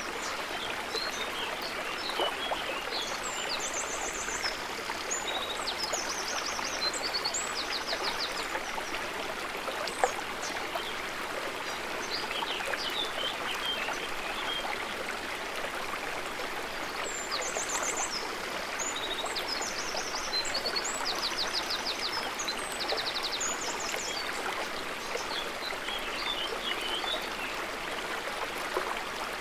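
Stream of water flowing and trickling steadily. Small birds chirp and trill in two spells, early on and again through the second half, and there is one sharp tick about ten seconds in.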